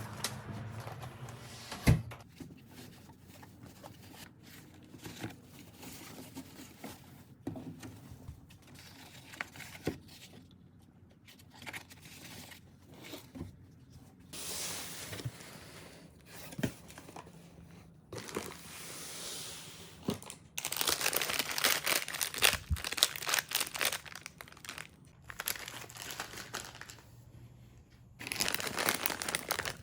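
Crinkly packaging or shopping bags being handled, with intermittent rustling and crackling and a few sharp clicks. It is loudest in a stretch about two-thirds of the way in and again near the end.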